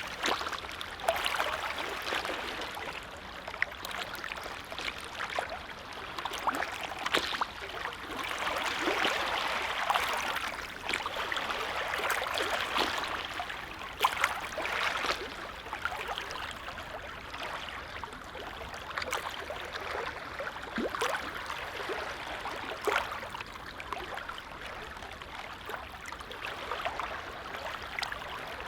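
Small waves on a calm lake lapping, making an uneven wash of water sound full of many small, quick splashes that swells and eases every few seconds.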